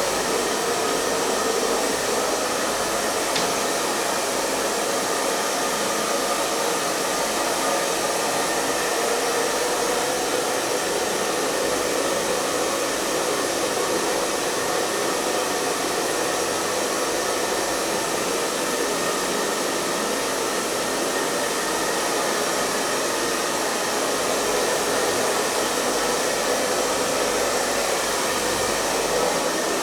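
Handheld hair dryer running steadily: an even, continuous whoosh of blown air over the motor's hum, with no change in speed.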